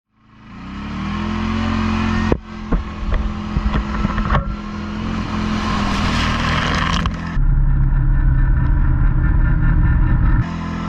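ATV engine running on a trail ride, with scattered clicks and knocks over the steady engine note; the sound changes abruptly a few times, as between cut shots.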